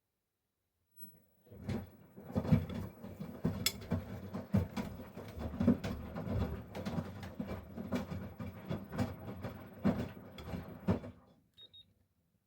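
Miele Professional PW 6065 washing machine drum turning during the main wash, the load of soft toys tumbling in the water with irregular thumps. It starts about a second in and stops about a second before the end, as the drum pauses between turns.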